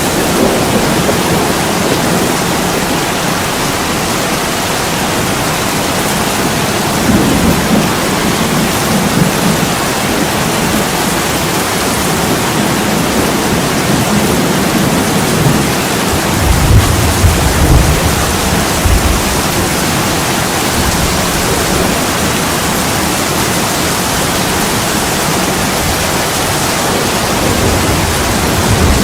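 Heavy rain pouring steadily on an attic window, a dense even hiss, with low rumbles swelling up about seven seconds in and more strongly around the middle.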